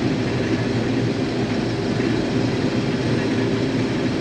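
Case IH 2188 combine running steadily while harvesting wheat, its engine and threshing works under load with crop feeding through.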